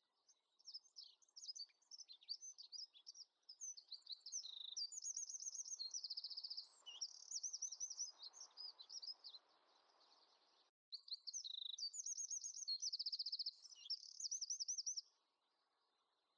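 A songbird singing a long run of rapid chirps and trills, with fast repeated-note rolls, breaking off for a moment about eleven seconds in.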